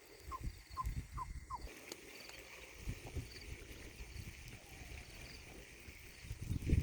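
Faint outdoor ambience: a quick series of short rising chirps in the first second and a half, faint high trilling calls repeating throughout, and a low rumble with soft thumps.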